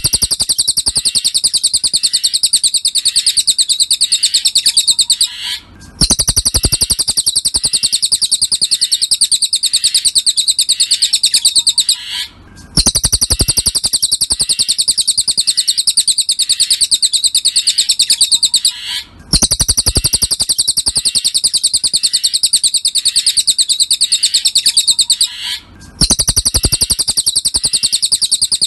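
Cililin songbird singing a masteran song: a loud, fast, unbroken high-pitched trill of rapidly repeated notes. It comes in phrases of about six and a half seconds, each ending in a brief pause before the next starts, four times.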